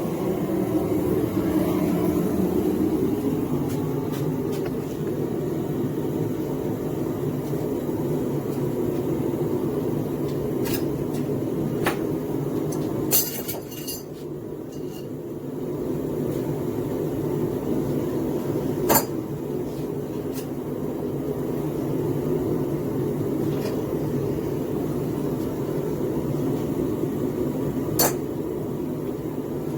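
Small gas forge burner running with a steady rush, broken by a handful of sharp metal clinks from steel and tools.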